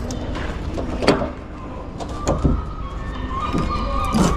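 A lorry's engine idling with a steady low hum, with a few sharp knocks and clanks and a short held whine near the end.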